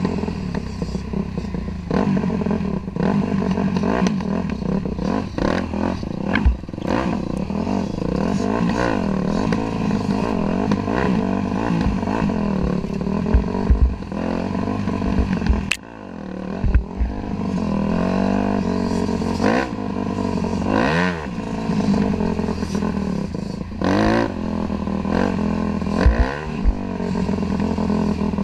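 Dirt bike engine running while riding, its pitch rising and falling again and again as the throttle is opened and closed, heard from a camera mounted on the bike. Scattered knocks and thumps run through it, and the engine eases off briefly about halfway through.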